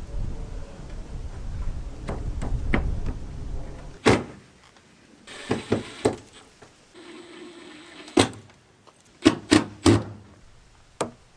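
A low rumble for the first four seconds, then about eight sharp, irregular knocks on wood from carpentry framing work, some in quick runs of two or three.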